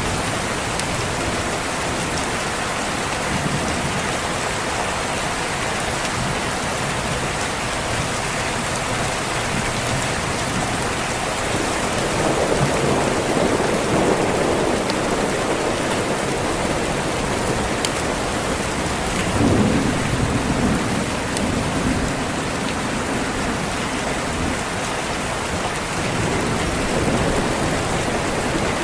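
Steady heavy rain, with thunder rumbling low twice: a longer roll about twelve seconds in and another about twenty seconds in.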